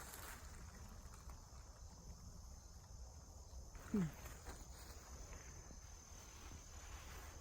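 Steady high-pitched drone of insects singing in summer woods. About four seconds in comes a single short squeak that falls in pitch.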